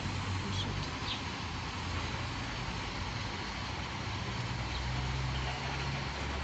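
ChME3 shunting diesel locomotive's six-cylinder diesel engine running with a low steady hum, its pitch shifting slightly, over a steady background hiss.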